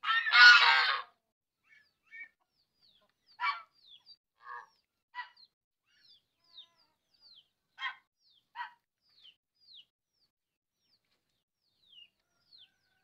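Bird calls: one loud call lasting under a second right at the start, then scattered short calls and thin, quick peeps falling in pitch.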